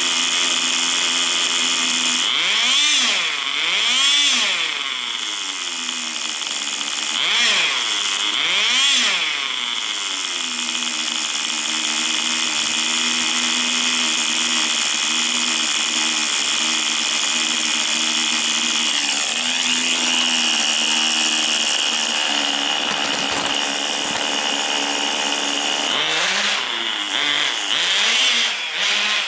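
A Tamiya TGS 1/10 RC car's small two-stroke nitro glow engine running with a high, chainsaw-like buzz. Its pitch swells up and down in quick pairs twice in the first ten seconds, holds steady for a long stretch, then swells again near the end.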